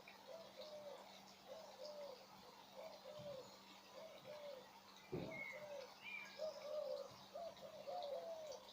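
A pigeon cooing over and over in a steady run of short, soft notes, about two a second, with other small birds chirping now and then. A brief low thump comes about five seconds in.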